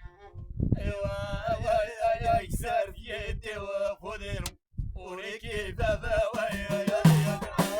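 A man singing a folk song in long held phrases with a wavering pitch, breaking off briefly about halfway through; plucked-string accompaniment comes back in near the end.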